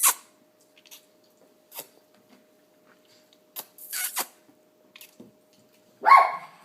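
Kiss noises: short lip-smacking sounds repeated every second or two, some in quick pairs, with a louder, higher-pitched sound near the end.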